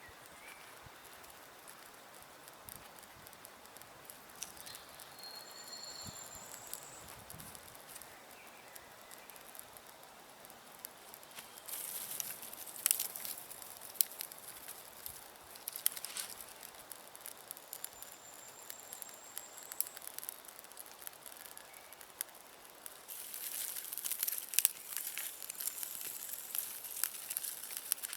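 Intermittent crackling and rustling of dry woodland litter such as twigs and pine needles, louder in two stretches, against quiet woodland ambience with a few short, high bird calls.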